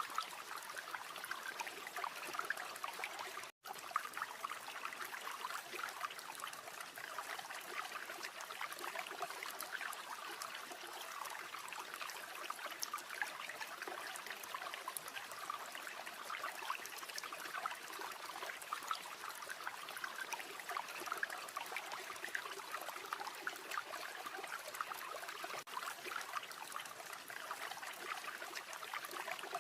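River water flowing steadily, mixed with the small crackles of a campfire. The sound briefly cuts out once, about three and a half seconds in.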